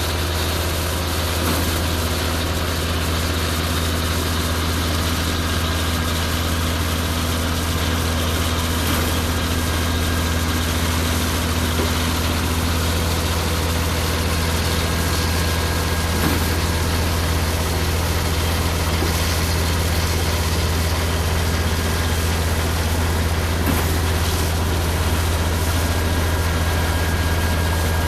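Concrete pump truck's engine running steadily, a constant low drone with no change in speed.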